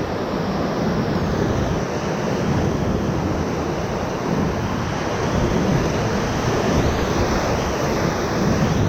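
Whitewater rapids of the Ocoee River running at high water, a loud, steady rush of churning water around the raft.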